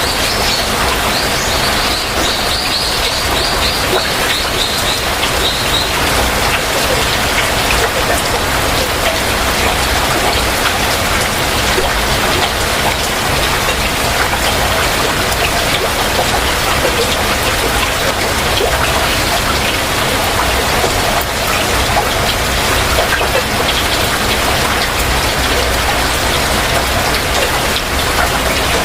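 Heavy rain falling steadily. A bird gives a rapid trill of short, high notes during the first six seconds.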